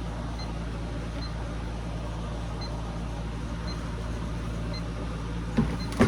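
Steady low hum of room background noise with faint ticking, then two short knocks near the end.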